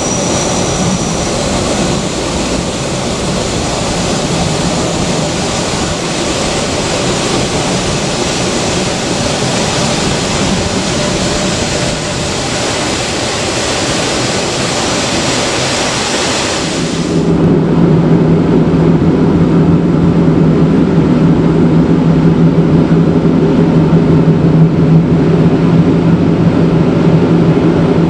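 Matterhorn Gotthard Bahn train running, heard from on board as a steady rushing noise. About two-thirds of the way through it turns louder and duller, with a steady low hum, as the train runs into an enclosed snow gallery.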